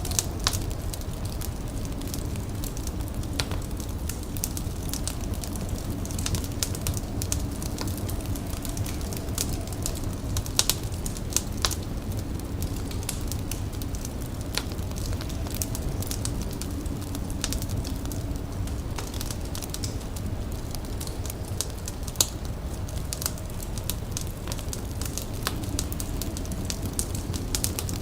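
Wood fire crackling with frequent sharp pops and snaps over a steady low rumble.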